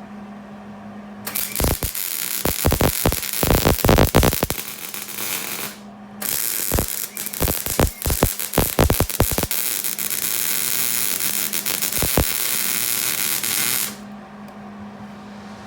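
Hobart Handler 190 MIG welder laying a bead on a rusty steel exhaust flange, using solid wire with shielding gas: a steady crackling, sizzling arc. It burns in two runs, a short one and then, after a brief stop, a longer one. A low hum sounds underneath.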